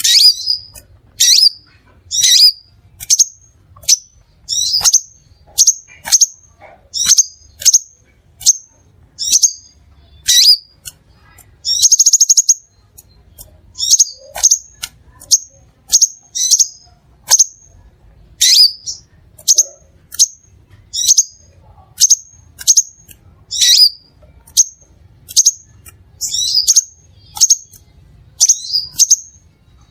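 Crimson sunbird calling: a run of short, sharp, high-pitched chirps, about one a second or a little faster, with a brief buzzy trill about twelve seconds in.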